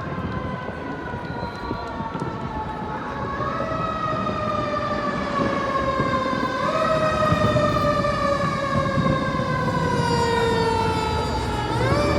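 Emergency vehicle siren wailing, its pitch gliding slowly down and jumping back up a few times, getting louder as it goes.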